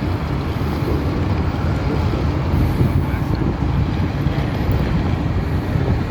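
Steady low rumble of a Zürich tram heard from the driver's cab, with no distinct clicks or tones.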